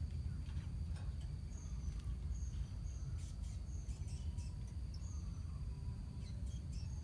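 Lovebirds in a colony giving scattered short, shrill chirps and sharp clicks, over a steady low rumble and a thin, steady high-pitched tone.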